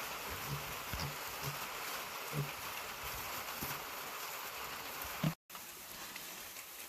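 Steady rain pattering, with pigs giving several short low grunts.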